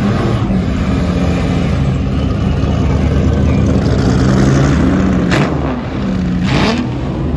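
Ferrari 250 GTO's 3.0-litre V12 accelerating away under throttle. Its note dips briefly and climbs again twice near the end.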